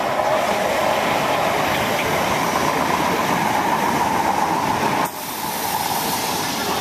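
South West Trains Class 455 electric multiple unit running through the station: a steady, loud rushing noise with a whine near the middle of the range, briefly dropping in level about five seconds in. Wind is buffeting the microphone.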